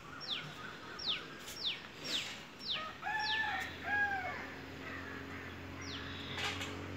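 Outdoor birdsong: one bird repeats a short, sharply falling whistled note about twice a second, and a lower, drawn-out call sounds twice near the middle. A low steady hum comes in around halfway.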